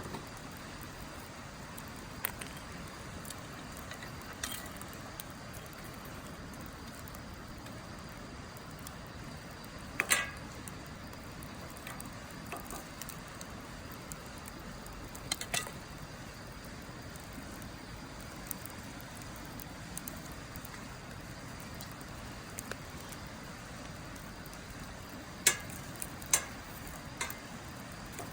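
Wood burning in a Snow Peak Takibidai L steel fire pit: a steady low hiss with scattered sharp crackles and pops, the loudest about ten seconds in, a pair in the middle and two close together near the end.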